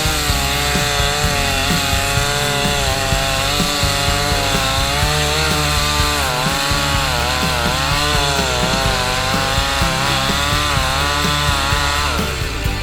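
Two-stroke chainsaw cutting wood, its engine pitch wavering up and down under load, then dropping away near the end.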